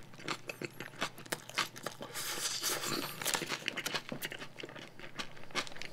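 A person chewing a bite of fried chicken burger close to the microphone: quiet, wet, crunching mouth clicks, with the paper wrapper crinkling now and then.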